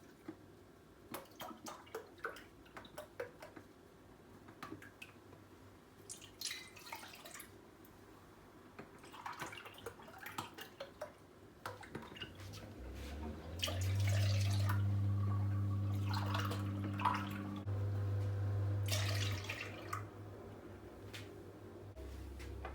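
Kitchen work sounds: light clicks and taps, short splashes of water, and a steady low appliance hum for about six seconds past the middle.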